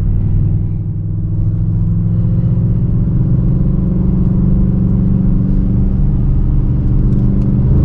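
Dodge Charger R/T's 5.7-litre Hemi V8 pulling hard up a highway on-ramp, heard from inside the cabin. The steady engine drone grows a little louder about a second in, then holds.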